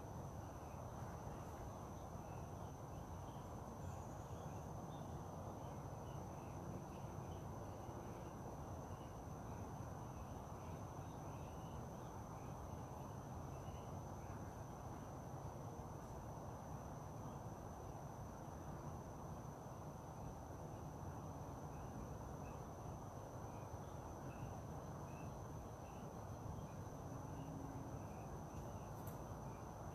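Outdoor ambience: a steady high-pitched insect trill, faint scattered chirps, and a low steady rumble underneath.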